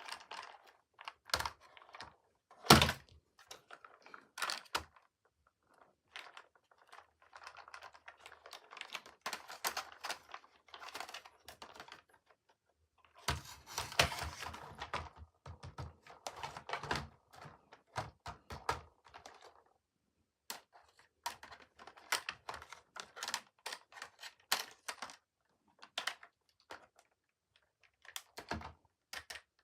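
Plastic toy trains and their packaging being handled: irregular sharp clicks and knocks, the loudest about three seconds in, with two longer stretches of rustling packaging.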